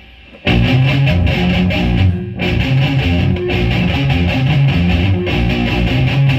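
Guitar music with strummed chords and a low bass line, starting abruptly about half a second in and playing steadily.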